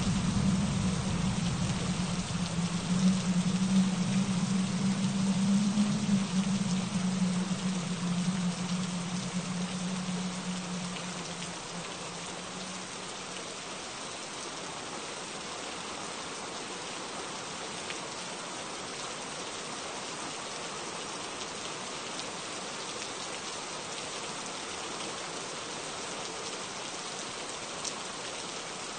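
Gentle rain falling steadily, an even hiss of drops. A low hum under it fades away over the first dozen seconds.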